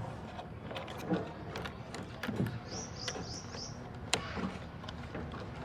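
Scattered clicks and light taps of tools and parts being handled, with the loudest click about four seconds in, and a quick run of four high chirps in the middle.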